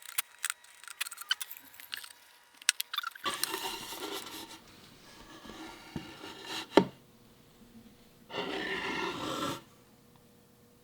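Hand tool scraping wood to take down a small hump on a dovetail joint. A run of light clicks and taps comes first, then two scraping strokes of about a second each, with a sharp knock between them.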